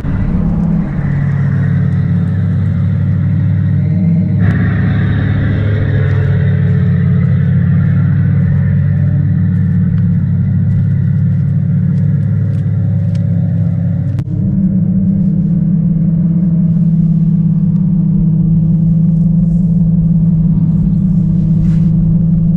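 Synthesized V8 engine sound played from a Tesla's external speaker add-on: a steady, idling engine rumble. It changes about four seconds in, and about fourteen seconds in it steps up to a higher, steady pitch.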